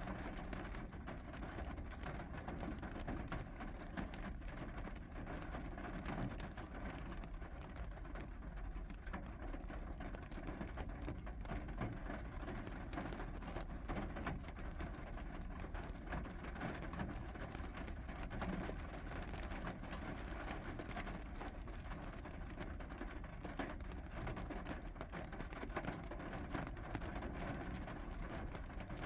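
Steady rainfall with a dense patter of drops, even throughout and without lulls.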